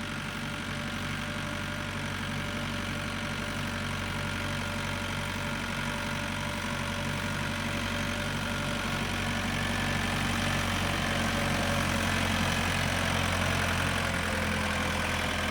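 Farm tractor engine running steadily at low speed as the tractor drives along, getting slightly louder about two-thirds of the way through.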